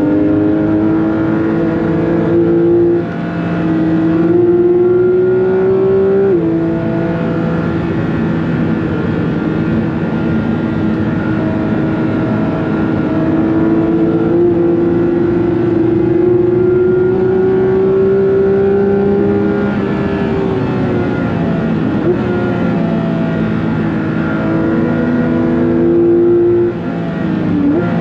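Porsche 911 GT3 (992.2) naturally aspirated 4.0-litre flat-six under hard acceleration, its pitch climbing through the revs and dropping sharply at upshifts, about three seconds in, about six seconds in, and twice more near the end, with a long steady climb in the middle.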